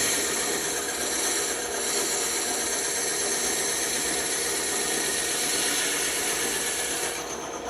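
Bandsaw running and cutting through wood, a steady whirring hiss with a high whine that drops away about seven seconds in as the cut ends.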